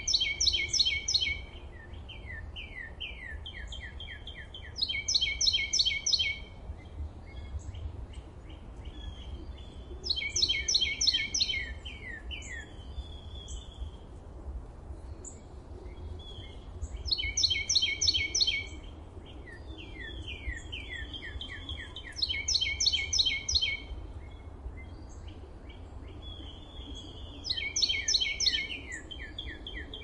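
A songbird repeating the same short, rapid trilled phrase six times, about every five to six seconds. Quieter falling chirps sound in between, over a steady low rumble.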